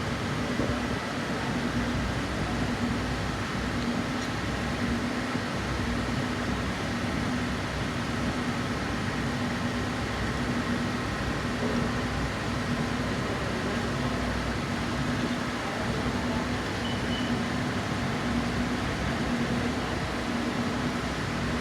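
Steady mechanical hum with a low tone that pulses about once a second.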